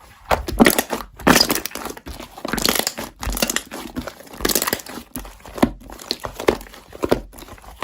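Crinkling and rustling of stationery packaging or sticker sheets being handled, in irregular strokes of varying loudness.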